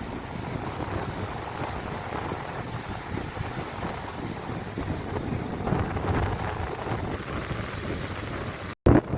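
Sea waves washing in surges, with wind buffeting the microphone. Near the end the sound drops out for an instant and comes back with a brief loud burst.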